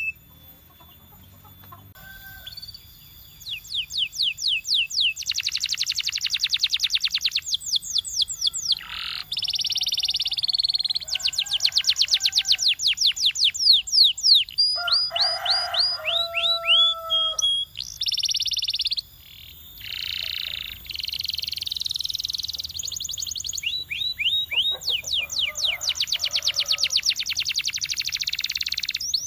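Canary singing a long song of fast trills: each phrase is a rapid run of repeated high notes, then it switches to a different trill, with a few short breaks. The song starts about two seconds in.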